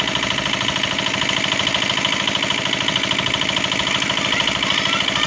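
Small engine running steadily with a fast, even knocking beat.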